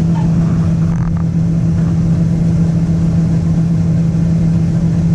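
Combine harvester running steadily while its grain tank unloads, heard from inside the cab: a constant engine drone with a strong steady hum.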